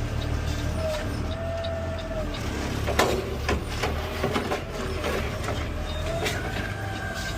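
Peterbilt 520 CNG garbage truck with an Amrep automated side-loader, running with a steady low hum. Short whining tones and several sharp clanks come from its hydraulic arm working, the loudest clank about three seconds in.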